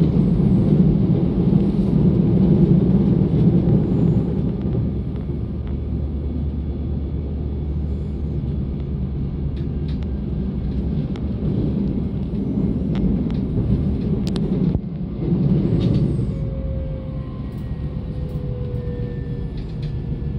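DB Class 425 electric multiple unit running, heard from aboard: a steady low rumble of wheels on track with occasional short clicks. In the last few seconds a thin whine slowly falls in pitch.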